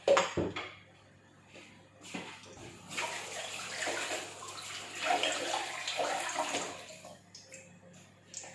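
A sharp knock at the start, then cooking oil being poured into a pan for about four seconds.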